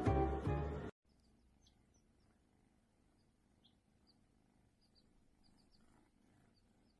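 Music with plucked guitar cuts off abruptly about a second in, leaving near silence with faint, scattered short high bird chirps.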